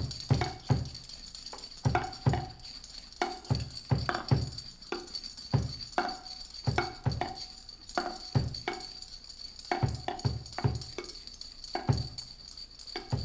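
A drum kit played in a loose, uneven rhythm of deep thumps and ringing tom-like hits, several a second, over a steady high whine, from a lo-fi recording by an experimental rock band.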